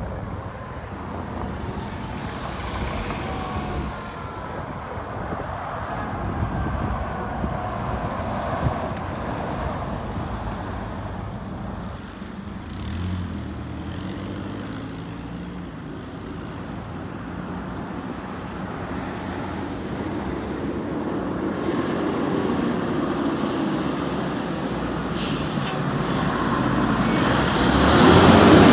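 Fire apparatus, a ladder truck and an engine, driving up on an emergency response with their diesel engines running. The noise grows louder as they approach and is loudest near the end as they pass close by.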